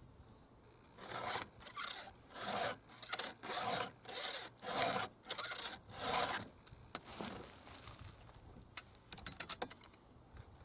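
Stihl 2-in-1 Easy File chainsaw sharpener being pushed across a saw chain's teeth, a rasping file stroke repeated about ten times at roughly two strokes a second, sharpening the cutters and filing down the depth gauges. A few light clicks follow near the end.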